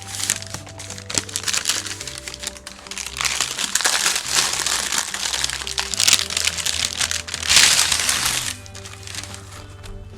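Food packaging crinkling and crackling as it is handled, in loud rustling stretches that peak about eight seconds in, over steady background music.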